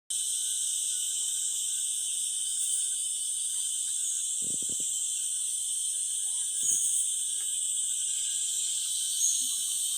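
Steady, dense, high-pitched chorus of rainforest insects, with a thin steady whine underneath. There are two brief low thuds, about halfway through and again near seven seconds.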